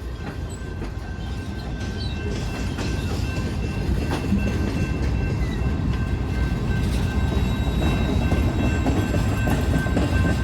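Freight train rolling past, a heavy rumble that grows steadily louder, with faint steady high tones over it.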